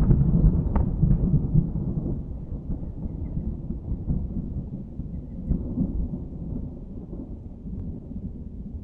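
Rolling thunder: a loud low rumble with a few sharp crackles at the start, dying away slowly, with a smaller swell of rumbling partway through.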